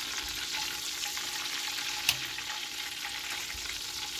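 Cornflake-coated chicken fillet frying in hot oil in a frying pan: a steady sizzle with small crackles, and one sharp click about halfway through.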